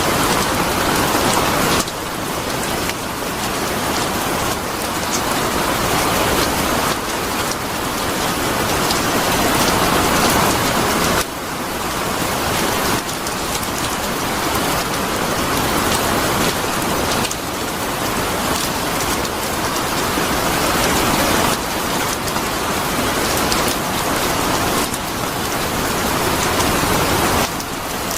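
Steady, heavy rain: a dense hiss of drops pattering on surfaces. The loudness dips suddenly every several seconds and then slowly builds back up.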